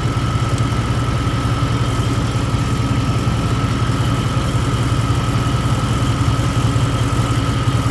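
Car engine idling steadily with the freshly recharged R134a A/C system running, a steady high tone sitting over the low engine hum.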